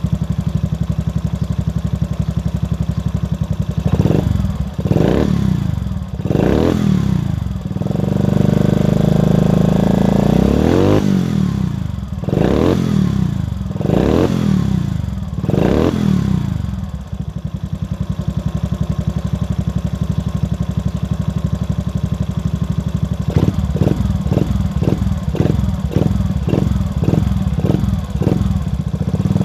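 Race-tuned 1976 Honda Novio's 50cc four-stroke single running through a LeoVince titanium exhaust. It idles steadily, is blipped a few times, revved once for a longer spell, blipped again, settles back to idle, and near the end gets a quick run of short blips, about two a second.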